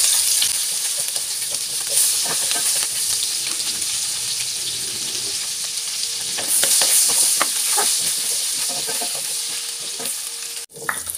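Potato cubes sizzling as they fry in melted margarine in a nonstick pan, with a wooden spatula scraping and knocking against the pan as they are stirred. The sizzle swells louder for a moment about two seconds in and again for a second or two past the middle, and the sound cuts out abruptly near the end.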